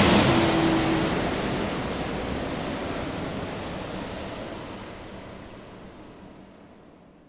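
Steady rushing cabin noise of a jet airliner in flight, fading out gradually.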